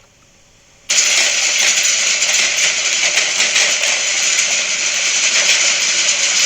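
Heavy hail clattering down in a dense, continuous pelting that starts suddenly about a second in.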